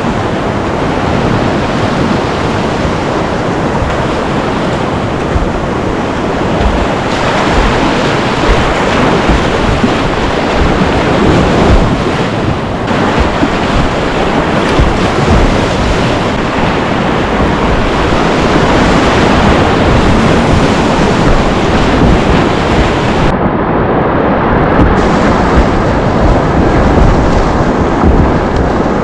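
Whitewater rapids rushing loudly and steadily, with wind buffeting the microphone. For a couple of seconds near the end the hiss dulls and sounds muffled.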